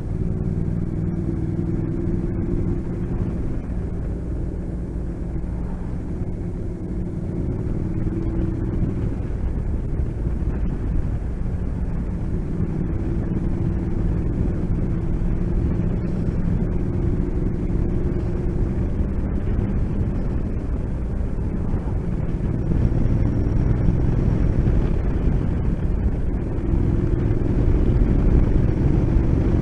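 Motorcycle engine running while riding, a steady engine note that drifts slightly in pitch over low road and wind rumble, getting a little louder near the end.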